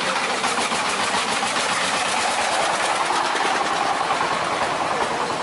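A small engine running steadily, a rapid even chatter.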